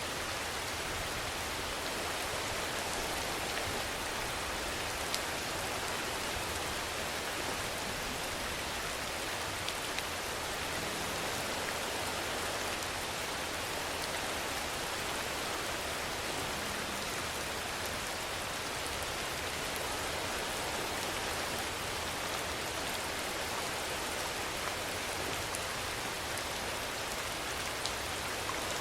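Steady rainfall: an even, unbroken hiss of rain with a few sharper single drop ticks now and then.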